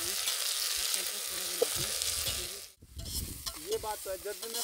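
Sliced onions and green chillies sizzling in a metal pot over a campfire while being stirred with a spoon; the sizzle cuts off suddenly a little over halfway through, leaving a quieter stretch.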